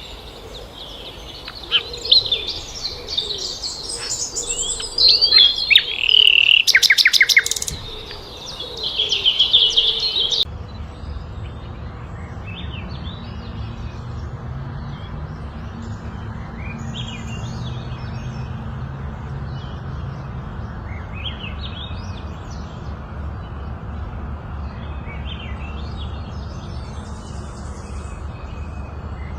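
Birds singing and calling: loud, busy chirps, rapid trills and whistled notes for about the first ten seconds. Then, after an abrupt change, fainter scattered bird calls over a steady low rumble.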